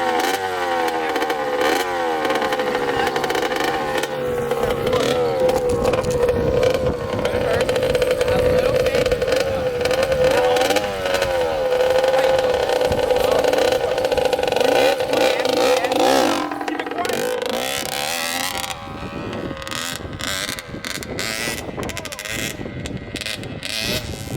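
Dirt bike engine revving up and down, then running at a steady pitch as the bike rides off under throttle. After about two thirds of the way through, the engine note drops away and choppy rustling and clatter take over.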